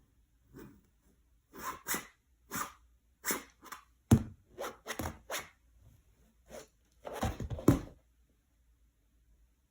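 Cat at play: irregular short scratching and rustling noises, with a sharp knock about four seconds in and a quick flurry of scrabbling near the end.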